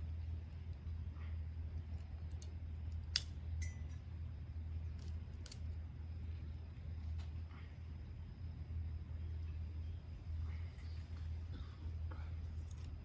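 Small wood fire crackling with scattered sharp pops, the loudest about three seconds in, over a steady low hum.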